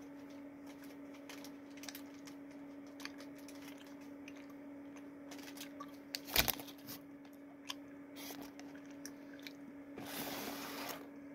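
A person chewing gummy fruit snacks with faint wet mouth clicks over a steady low hum, with a single loud knock about six seconds in and about a second of rustling near the end.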